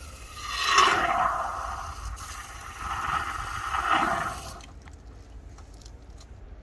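Engine decarbonising cleaner being fed from its nearly empty can through a tube into a cylinder through the spark-plug hole, with two hissing, gurgling spurts that stop about four and a half seconds in.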